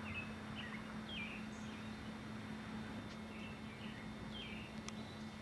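Birds chirping: short, falling chirps repeated every second or so over a steady hiss and a low hum, with one sharp click near the end.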